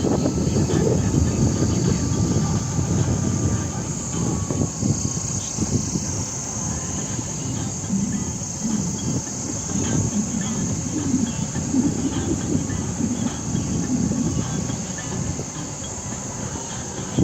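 A vehicle driving over a rough off-road track: a continuous uneven rumble with frequent small jolts and knocks. A steady high insect buzz, like crickets, runs over it.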